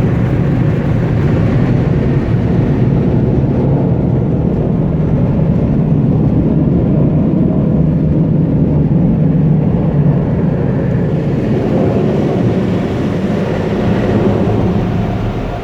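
Car wash air dryer blowers running, a loud steady rush of air that eases off a little near the end.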